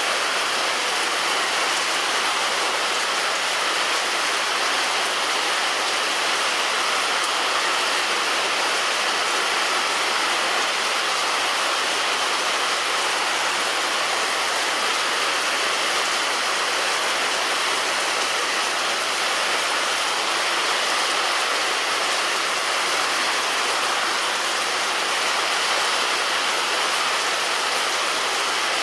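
Heavy rain falling steadily on a roof, an even hiss with no let-up.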